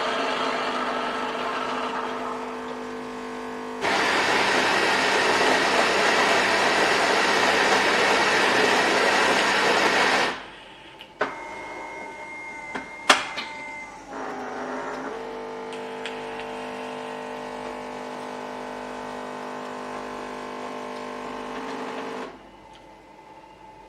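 Melitta Latticia OT F300-101 fully automatic coffee machine running through a cycle. It starts with a steady motor hum, then about six seconds of much louder, noisier running, then a few clicks and one sharp click. A steady hum follows and stops shortly before the end.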